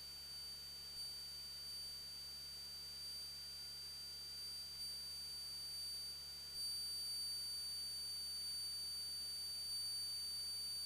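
Faint, steady high-pitched electronic tone with hiss and a low hum: line noise in the audio feed while the signal is muted. No engine is heard.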